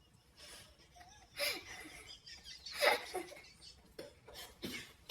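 People laughing in short irregular bursts with breathing between them, reacting to the stink of a foul-smelling spray.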